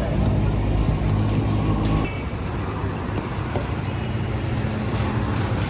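An engine running steadily, a low hum that shifts slightly about two seconds in.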